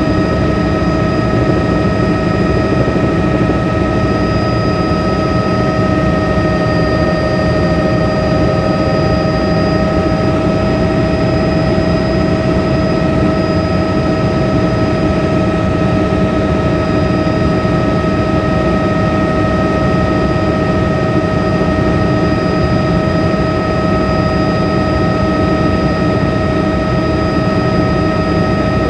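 Helicopter running steadily at close range: a dense rotor and engine noise with a steady high whine held on several even pitches, unchanging throughout.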